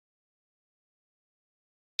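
Dead silence, then right at the very end a loud recorded songbird call cuts in abruptly, a fast run of repeated high notes.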